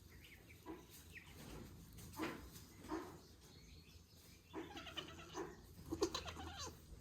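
Nigerian Dwarf doe in labor making a series of faint, short vocal sounds, soft bleats and grunts, more of them in the second half.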